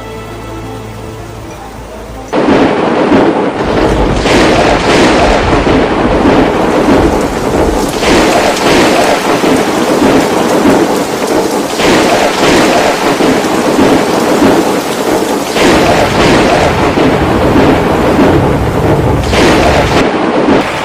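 Heavy rain pouring down in a storm, coming in suddenly loud about two seconds in and surging in waves every few seconds. It is a downpour the speaker calls getting bigger and bigger, super big. Faint background music is heard before the rain comes in.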